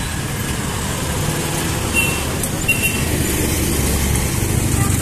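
Road traffic on a busy city street: vehicle engines running steadily, with two short high-pitched tones a little after two seconds in.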